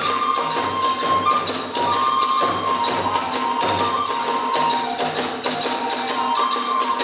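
Hiroshima kagura accompaniment: a bamboo flute holding and stepping between notes over fast, steady drumming and cymbal strokes.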